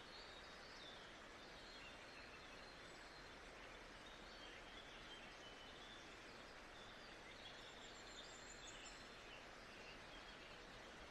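Faint nature-ambience track: a steady hiss with many short, distant bird chirps scattered through it.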